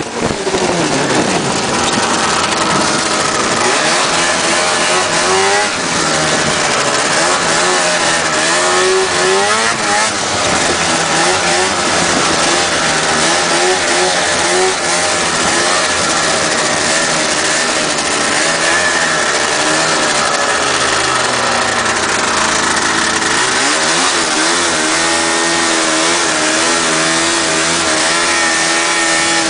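1979 Ski-Doo Blizzard 7500 Plus snowmobile's two-stroke engine running under way, its pitch rising and falling with the throttle. The engine climbs steeply right at the start and revs up again about three quarters of the way through.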